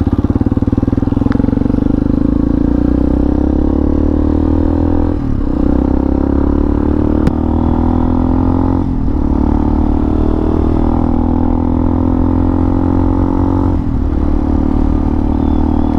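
Hawk 250 dual-sport motorcycle's single-cylinder engine pulling away and accelerating through the gears: the engine note climbs steadily and dips at each upshift, three times, about five, nine and fourteen seconds in.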